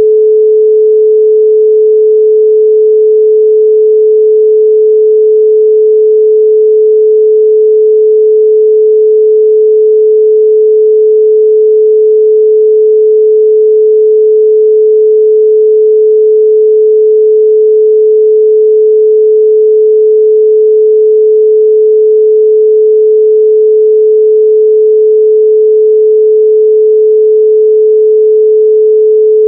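A loud, steady 432 Hz pure sine tone: one unchanging pitch with no overtones.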